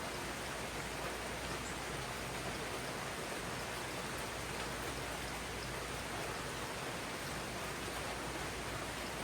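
Steady rain falling on jungle foliage, an even hiss with no let-up.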